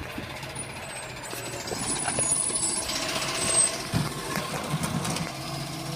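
A heavy truck running, its engine and mechanical noise swelling in the middle with a sharp clunk about three and a half seconds in.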